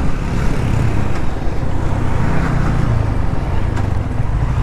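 Yamaha R15 V3's single-cylinder engine running steadily while the motorcycle is ridden, under a constant rush of wind noise.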